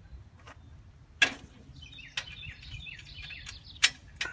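Birds chirping in short repeated falling notes, broken by two sharp knocks, about a second in and near the end.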